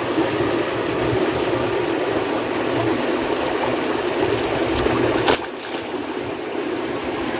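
Steady rushing of running water, with a sharp click a little over five seconds in, after which it is slightly quieter.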